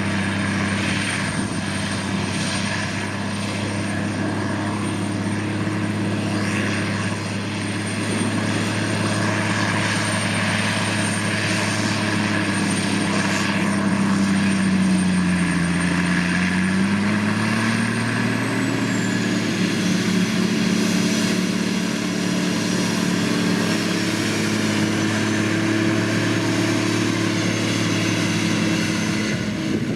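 Case IH Quadtrac 535 tractor's diesel engine running steadily under load as it pulls a cultivator through the ground. About halfway through, the engine pitch dips briefly and then rises again, and a high thin whine above it falls in pitch soon after.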